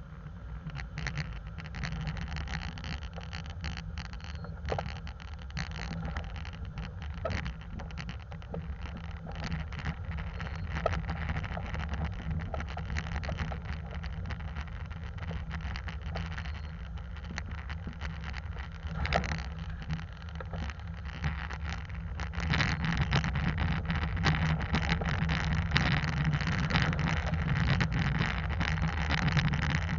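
Hyundai Santa Cruz pickup driving a rough dirt road, picked up by a camera mounted outside the truck: a steady low rumble of engine and tyres with wind buffeting the microphone and frequent small clicks and crackles. It grows louder about three-quarters of the way through.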